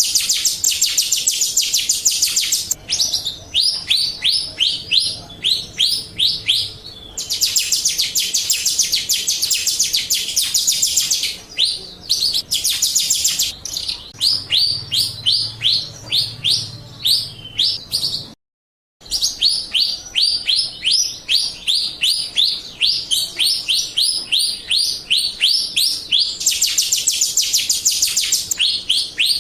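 Jalak Rio bird song: high, rapid chirping that switches between dense fast trills and quick runs of short falling notes, several a second. The song cuts out completely for about half a second a little past the middle.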